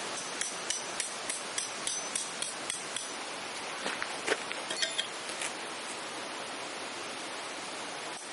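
Claw hammer tapping a titanium tent peg in light, quick strokes, about three a second. A few harder, ringing blows come about four to five seconds in, over a steady rushing background.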